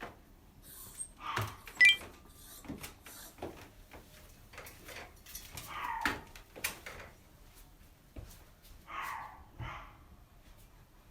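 A dog giving a few short barks, spaced several seconds apart, among scattered light clicks and knocks.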